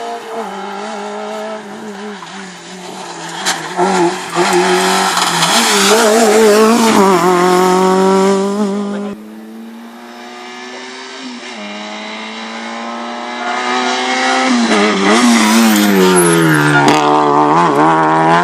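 Small Fiat rally car engines revved hard on a stage, the pitch climbing, wavering and dropping back through gear changes, with tyres squealing. About halfway the sound cuts abruptly to another car's pass, which builds up again to full throttle.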